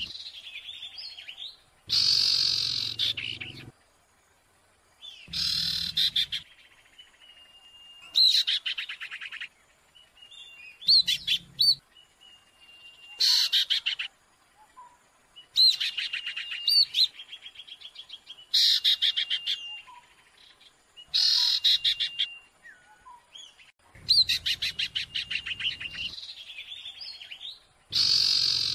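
Calls of sirtu birds, several overlapping in a compilation: a rapid rattling trill of a second or two, some calls ending in a short held whistle, repeated every two to three seconds.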